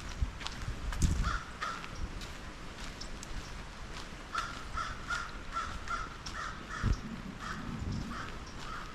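Crows cawing: two short caws about a second in, then a long, quick run of short caws from about halfway.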